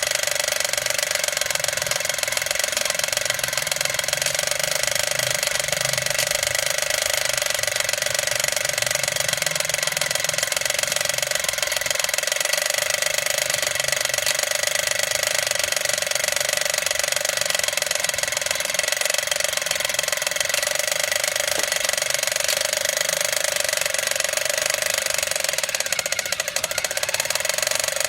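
Battery-operated toy motorcycle racing track set running: its small geared plastic drive whirs steadily with fast, continuous clicking.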